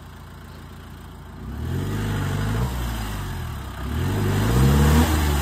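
Off-road SUV engine revving: a low hum at first, then about a second and a half in the engine pitch climbs, eases off, and climbs again near the end.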